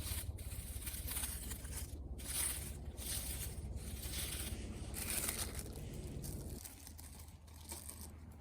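Repeated rustling and tearing noises over a low steady hum, the hum stopping about two-thirds of the way through.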